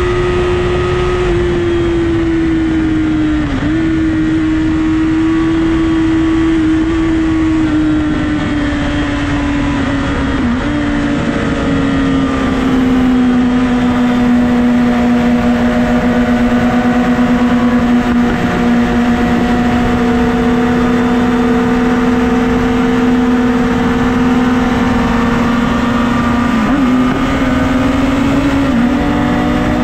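Honda CBR1000RR inline-four sport bike engine running at a steady highway cruise, heard over loud wind rush. The engine note holds steady, settles lower about ten seconds in, and dips briefly a few times.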